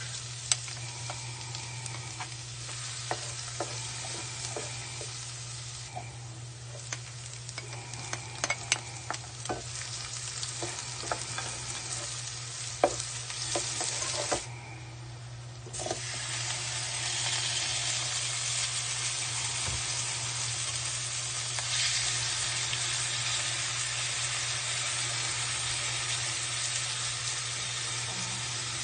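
Garlic and onions sizzling in hot oil in a nonstick wok, with a spatula clicking and scraping against the pan as they are stirred. After a brief lull just before halfway, a louder, steadier sizzle takes over as pork pieces fry in the pan.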